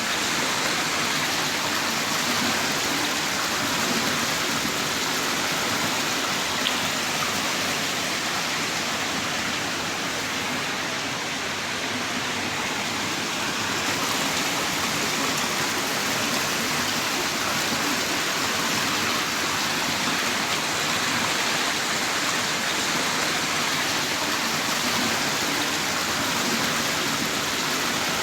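Heavy rain pouring down in a steady, dense hiss, with a faint drop in intensity about halfway through.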